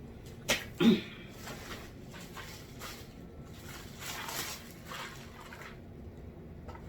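Vacuum attachments and packaging being handled: a sharp click about half a second in, a louder knock just after, then intermittent rustling.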